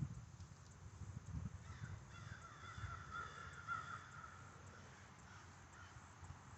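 An animal calls for about two and a half seconds, starting a little under two seconds in, over faint low bumps.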